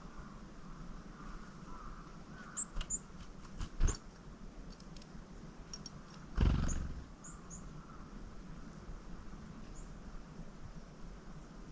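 Small wild birds giving a few high, thin chip calls in two short groups, with a run of clicks ending in a sharp knock about four seconds in and a louder low rushing burst about six and a half seconds in.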